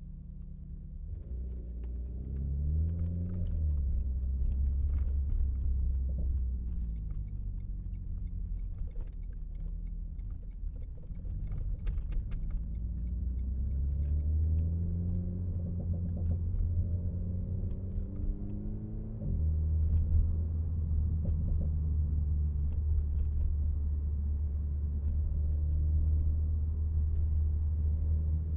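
Renault Mégane RS Trophy's turbocharged four-cylinder engine and exhaust under way, with a low rumble. The revs climb a few times as the car pulls away, with steady running in between.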